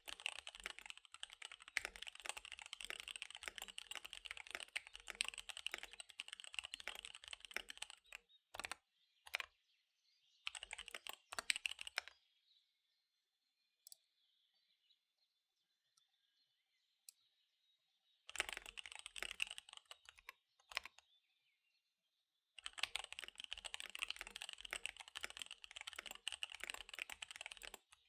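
Fast typing on a KBD75 V3 mechanical keyboard with SP-Star Dark Magic Girl tactile switches and DSA keycaps: rapid runs of keystrokes broken by pauses, the longest about a third of the way in, lasting several seconds. Faint birdsong plays in the pauses.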